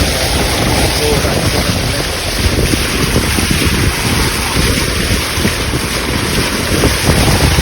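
Strong wind buffeting the microphone: a loud low rumble that rises and falls in gusts.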